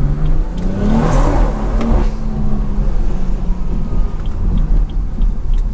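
Stage 2 tuned BMW 340i's B58 turbocharged inline-six accelerating: the engine note climbs over the first second, a short rush of noise follows, then the note settles into a steady drone that slowly eases off.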